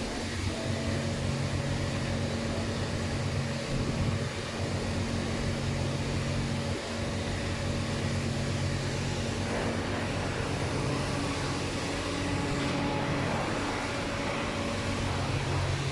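Steady mechanical hum of a running vehicle, a constant low drone with a steady tone above it and no sudden events.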